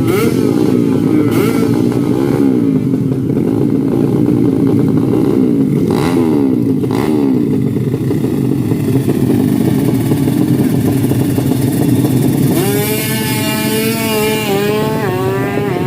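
Racing motorcycle engines revving hard, several overlapping, with two sharp pops around six and seven seconds in. Near the end one bike accelerates through the gears, its pitch climbing and dropping back at each shift.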